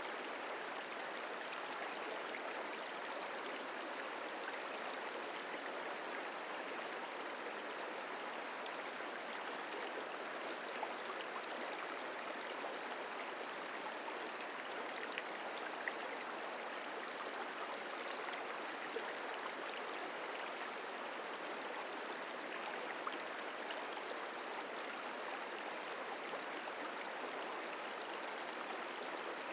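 Merced River flowing: a steady, even rush of moving water, with a few faint ticks scattered through it.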